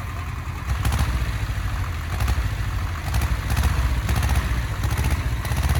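An engine running with a steady low rumble that swells and dips about once a second.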